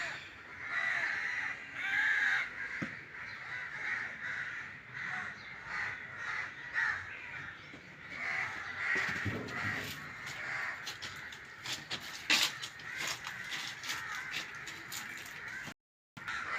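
Birds calling outdoors: a run of short calls repeating every second or so, with a low thump about nine seconds in.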